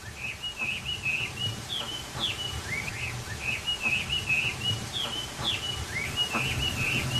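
Birds chirping: a busy run of short high calls, several a second, with an occasional quick falling or rising note.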